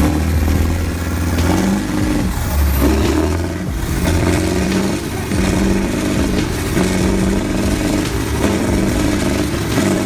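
Tractor engine running, its speed rising and falling in steps every second or two.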